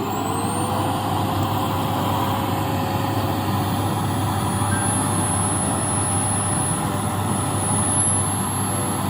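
Canister cyclone vacuum cleaner running, its motor whine rising as it spins up at the start and then holding steady under a loud rush of suction, with a thin high whistle on top.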